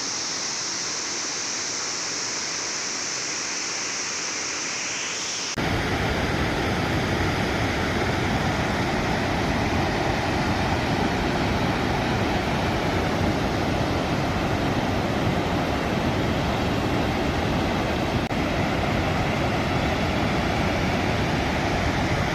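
Waterfall, a steady rush of falling water. About five seconds in it switches abruptly to a louder, deeper rush.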